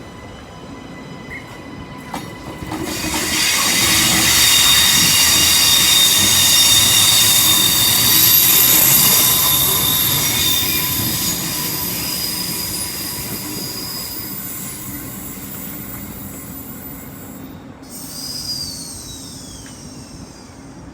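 Steel wheels of a Queensland Rail IMU 100 electric train squealing on a curve over the running rumble, heard from on board. A high, many-toned squeal builds about three seconds in, holds for several seconds, then fades. A single falling tone follows near the end.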